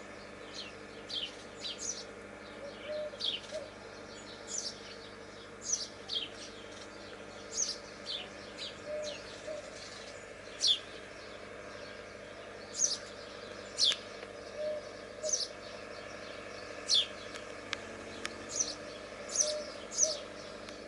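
Small birds chirping: short high notes that each drop sharply in pitch, repeated irregularly about once a second.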